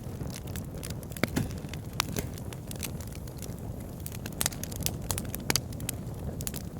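Wood fire burning in a fireplace: a steady low rumble of flames with irregular sharp crackles and pops, several louder snaps scattered through.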